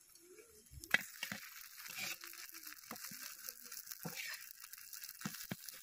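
Noodle fritters sizzling in oil on a tawa, with a metal spatula scraping and knocking against the pan as they are turned over; the first and loudest knock comes about a second in and several more follow.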